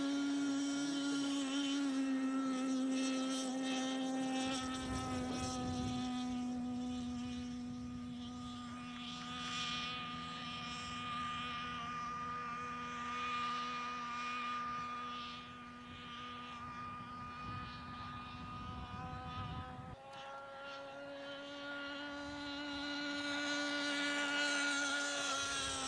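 Giant-scale radio-controlled model airplane engine running at high speed, a steady high-pitched buzz whose pitch sags a little at times. About twenty seconds in the note changes abruptly to a slightly higher buzz, and a low rumble underneath it stops.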